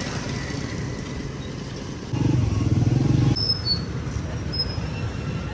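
Low, steady rumble of a car engine running, louder for about a second in the middle.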